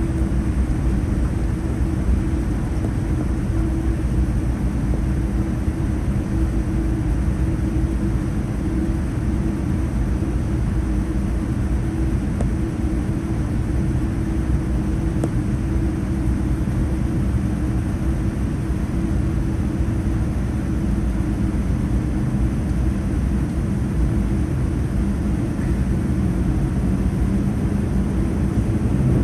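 Steady low rumble inside the cabin of a Boeing 787-9 on the ground after landing, unbroken throughout: the engines running at idle, with cabin air and ground rumble.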